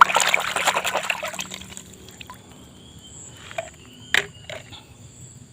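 Water splashing and trickling through wet sand in a toy dump truck's bed, busiest in the first two seconds and then settling. A few light knocks follow, the sharpest about four seconds in.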